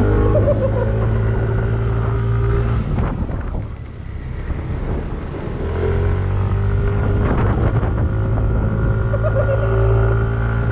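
Yamaha Aerox 155 scooter's single-cylinder engine running steadily, easing off about three seconds in and picking up again about three seconds later, with wind on the microphone.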